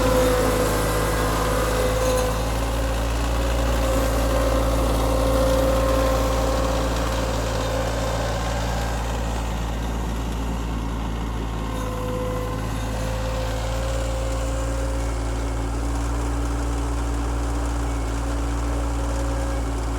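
Tractor engine running steadily, an even hum that holds its pitch throughout.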